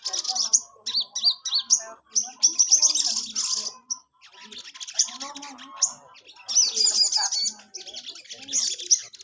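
A sunbird (sogon) singing in bursts of rapid, high, warbling trills, about half a dozen bursts with short pauses between them.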